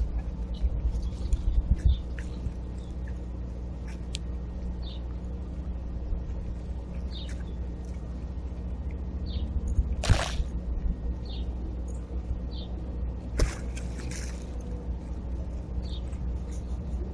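Small backyard birds chirping in short, high notes about once a second over a steady low rumble. A brief whoosh comes about ten seconds in and another a few seconds later.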